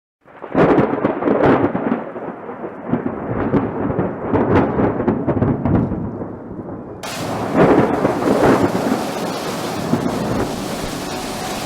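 Thunder rumbling and cracking in repeated loud peals. About seven seconds in, a steady hiss of heavy rain sets in suddenly, with more rumbles of thunder over it.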